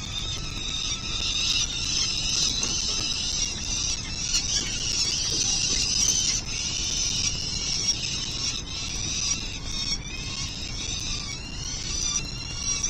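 Peregrine falcons calling: a steady run of harsh, rapidly repeated, high-pitched calls with only short breaks.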